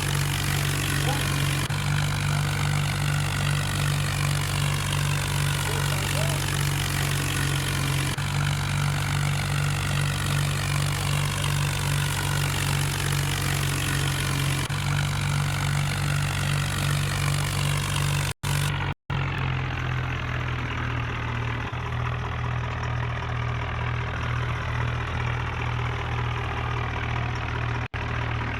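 Tractor engine running steadily with a low drone, in segments joined by abrupt cuts, with two brief dropouts about two-thirds of the way in.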